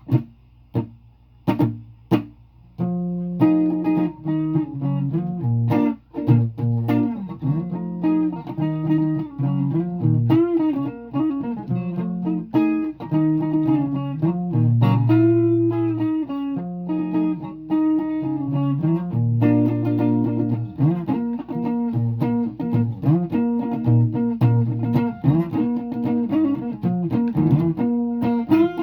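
Guitar playing: a few separate plucked notes, then continuous playing with a low bass line from about three seconds in.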